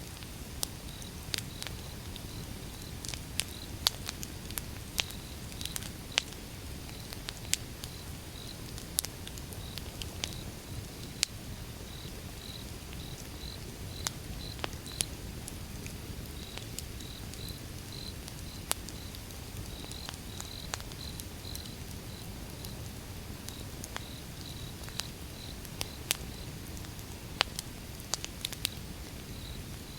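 Wood fire burning, with sharp crackles and pops at irregular moments over the low, steady noise of the flames. A faint, high chirping repeats in short pulses throughout.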